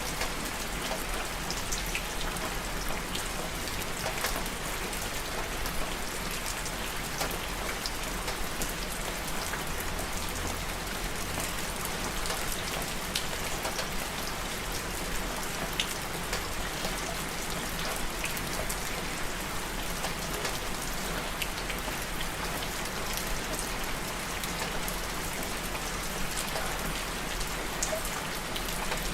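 Steady rain falling, with many sharp ticks of single drops hitting a surface over an even hiss.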